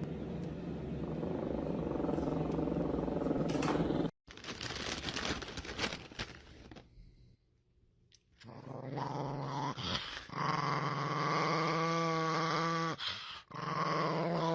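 Dog growling in long, drawn-out stretches, broken by a short silence about halfway through.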